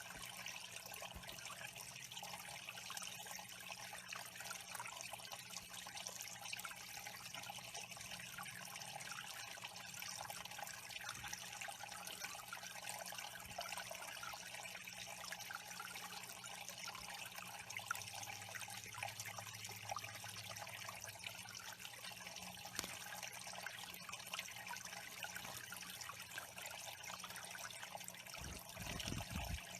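Water trickling steadily into a small bird pond. A brief low rumble comes near the end.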